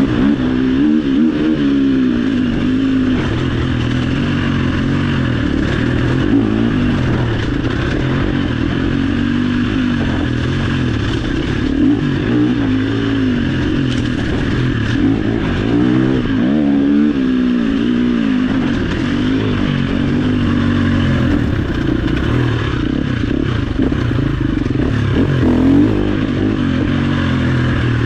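Off-road dirt bike engine ridden on a trail, revving up and falling back over and over as the rider works the throttle and gears.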